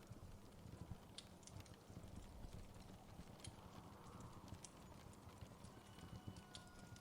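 Wood fire in a fireplace crackling faintly: scattered sharp pops at irregular intervals over a low steady rumble.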